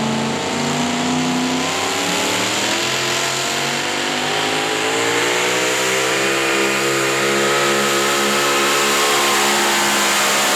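Pulling vehicle's engine at full throttle, its pitch climbing over the first few seconds and then holding high and loud, as it pulls the sled down the track.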